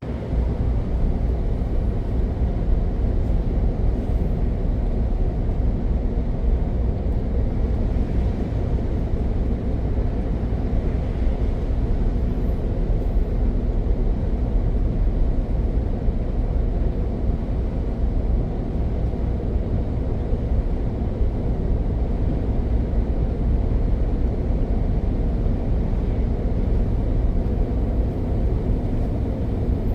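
Heavy truck driving along steadily: a constant low engine and road rumble with no change in pace.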